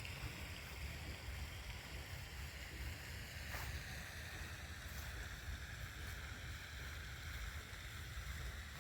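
Steady outdoor background: a low rumble of wind on the microphone under an even hiss, with a few faint taps.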